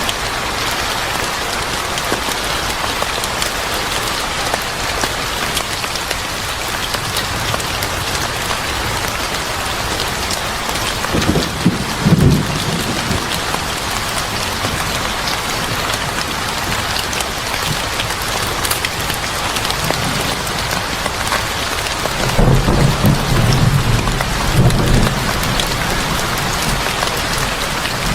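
Steady heavy rain falling on a surface, with a low roll of thunder about eleven seconds in and a longer one about twenty-two seconds in.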